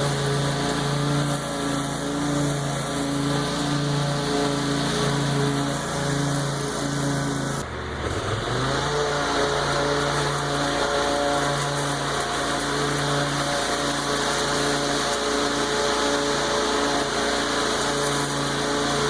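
Lawn mower engine running steadily while cutting tall, overgrown grass. About eight seconds in, its pitch drops sharply as the engine bogs down, then picks back up to speed within a second.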